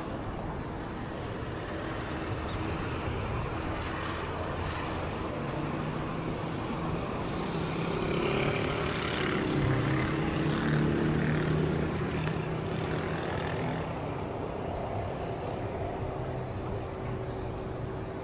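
Outdoor traffic-type noise with a motor engine passing by: its hum grows louder to a peak about halfway through, then fades.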